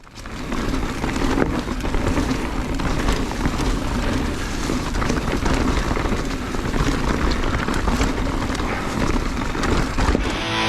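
Wind rushing over the microphone and tyre noise of a mountain bike riding fast over a rocky trail, with scattered sharp clicks and rattles.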